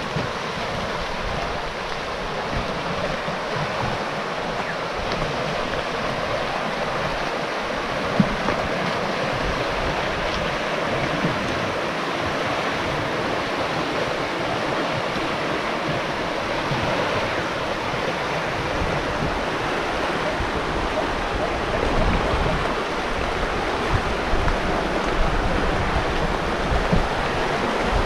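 Steady rushing of a flowing river, an even wash of water noise with no break.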